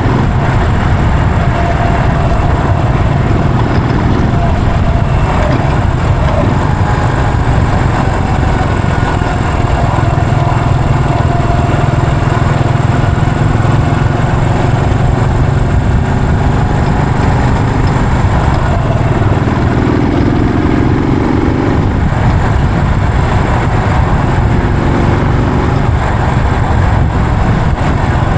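Yamaha SR400's air-cooled single-cylinder four-stroke engine running steadily as the motorcycle is ridden, with a loud low drone. Its pitch rises briefly about twenty seconds in.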